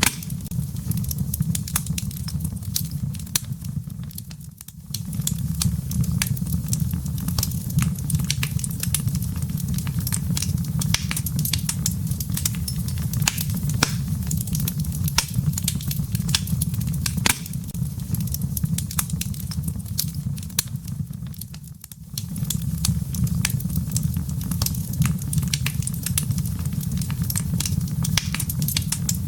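Wood burning in a fireplace: a steady low rumble of flames with constant crackling and snapping pops. The low rumble drops away briefly twice, about four seconds in and again near twenty-two seconds, while the crackles carry on.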